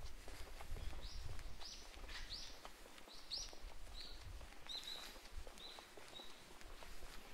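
A small bird chirping about ten times in short, high notes, several of them sliding down in pitch, over footsteps and a low street rumble.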